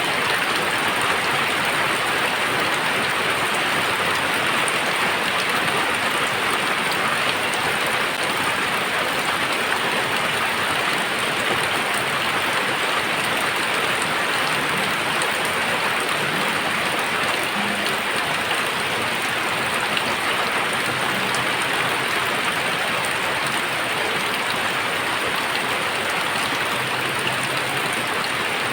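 Very heavy rain falling steadily, a dense even hiss of rain on surfaces.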